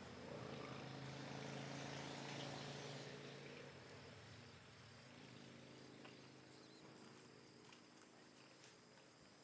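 Faint outdoor ambience: a distant engine hum fades out over the first four seconds or so, under a steady high insect drone.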